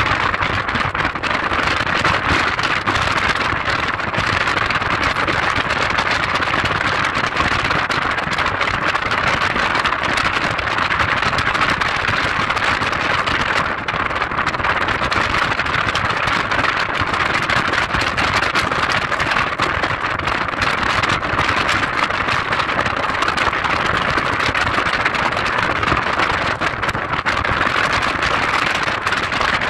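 A car driving steadily, with a continuous mix of engine and tyre noise and no change in pace.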